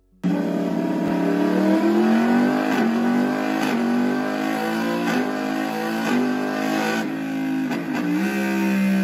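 Yamaha MT-10 SP's 998 cc crossplane inline-four running through an Akrapovic exhaust on the move, starting suddenly just after the beginning. The engine note climbs and then drops sharply again and again, roughly once a second.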